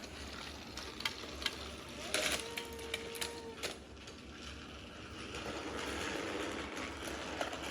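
Toy trains with small motors whirring on a plastic track, with several sharp clicks of pieces being handled early on, plus a steady held note for about a second. The whir grows louder about five seconds in.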